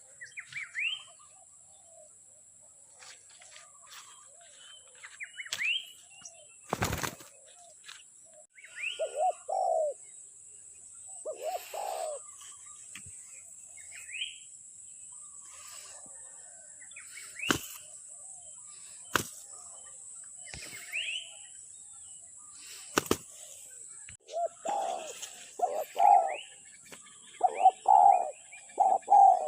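Spotted doves cooing in short repeated phrases, a pair of coos about 9 to 12 seconds in and then coo after coo from about 25 seconds on, with small birds chirping in short rising notes between them. A few sharp clicks and a steady high hiss run underneath.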